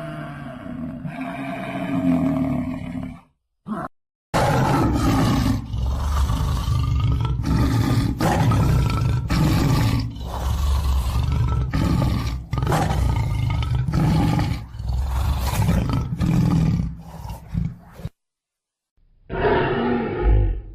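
A big cat roaring: a long series of deep, rough roars and grunts following one another closely, cut off abruptly twice by sudden silences.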